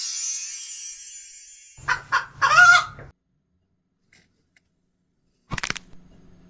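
Three short honking calls in quick succession about two seconds in, like a bird's. A brief click follows about five and a half seconds in.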